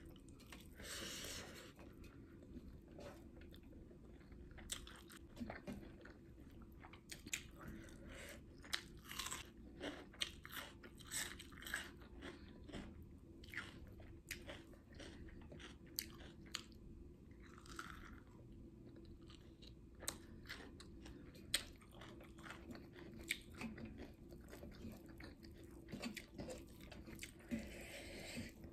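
Close-miked chewing of a mouthful of rice, pork curry and greens eaten by hand: many small wet clicks and smacks, with occasional sharper crunches.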